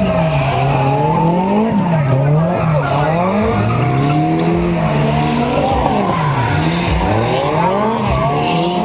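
Drift car engine revving hard, its pitch swinging up and down every second or so as the throttle is worked, with tyres squealing as the car slides.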